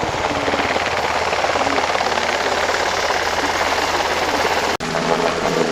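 Sikorsky UH-60 Black Hawk helicopter in flight: the twin turboshaft engines run with a rapid, even beat of the rotor blades. The sound breaks off for an instant near the end, then carries on.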